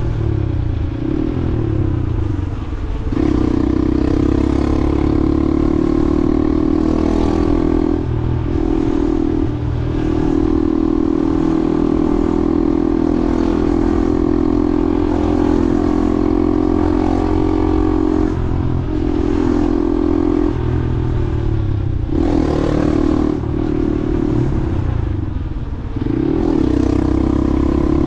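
Motorcycle engine running under way, its pitch and level dipping and rising again several times as the rider eases off and speeds back up in traffic.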